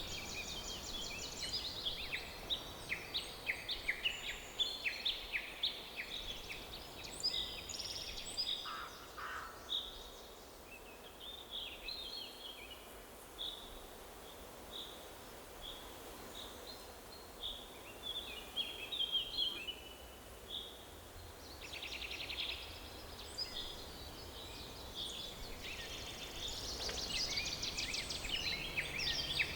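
Several songbirds chirping and trilling in a forest chorus, calls overlapping thickly in the first few seconds and again near the end, sparser in between, over a faint steady background hiss.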